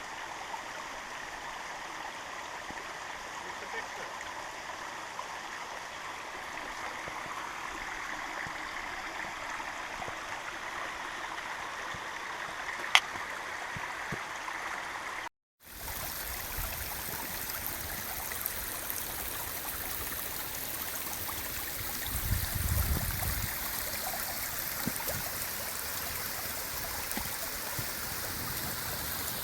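Steady rushing noise of flowing water, like a mountain stream. It drops out for a split second about halfway through, and is brighter and hissier after the break.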